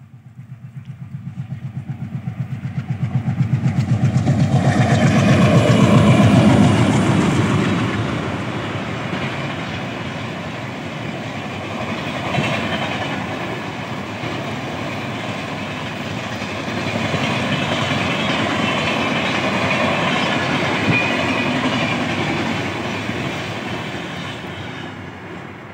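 Twin WDM-3A diesel locomotives approaching and passing with a rapid pulsing engine beat, loudest about six seconds in. A long rake of passenger coaches follows, rolling by with steady wheel-on-rail noise that fades near the end.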